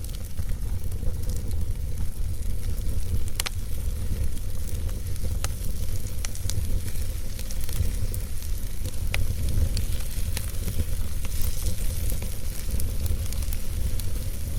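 Campfire burning: wood crackling with sharp pops every few seconds over a steady low rumble and a hiss that grows louder briefly about three-quarters of the way through.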